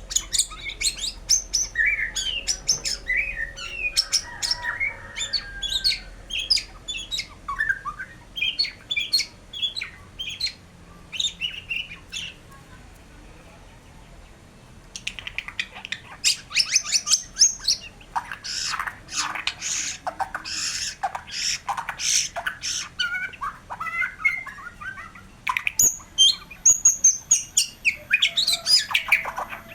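White-rumped shama (murai batu) in full song: a fast run of varied whistles and chattering notes. It breaks off for about two seconds near the middle, then resumes louder and denser.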